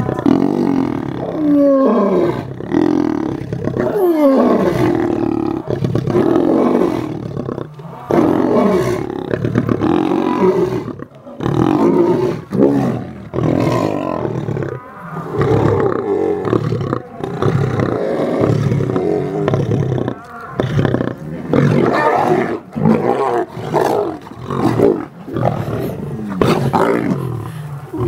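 Lions calling loudly while being fed, in a long string of rough, short calls with brief gaps between them; a few early calls fall in pitch.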